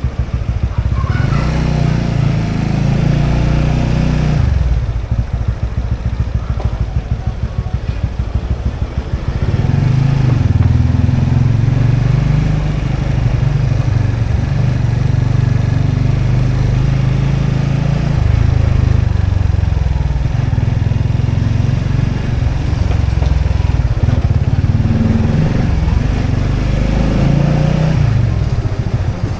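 A motorbike engine running while riding. Its low engine note eases off about four seconds in and picks up again about nine seconds in, then holds steady.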